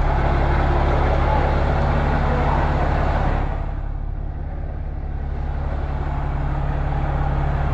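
Vehicle engine running steadily with a low hum, its higher-pitched noise easing off about three and a half seconds in and building back up a couple of seconds later, as the vehicle is slowly manoeuvred into position.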